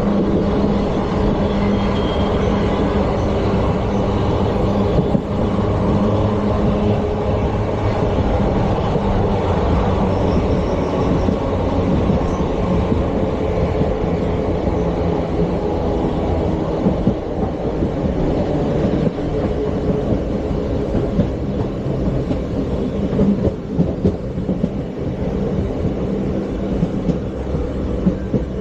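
ICF passenger coaches of an express train running along the track: a continuous heavy rumble, with scattered sharp wheel knocks in the second half.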